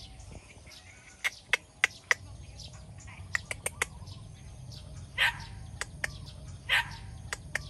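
Birds chirping: a scatter of short, sharp chips, with two louder, harsher calls about five and seven seconds in, over a low steady background rumble.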